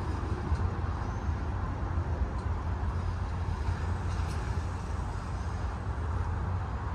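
Norfolk Southern freight train's cars rolling past at a distance: a steady low rumble.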